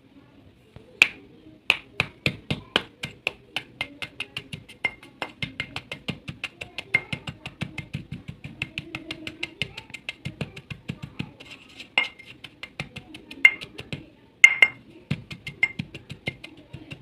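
Dry clay pieces (mitti ki barfi) crunching and cracking in a rapid run of sharp snaps, several a second, thinning to a few louder separate cracks near the end.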